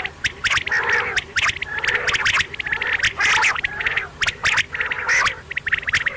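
Quail calling over and over: raspy, chattering calls broken up by quick clicks, several to the second, over a faint steady low hum.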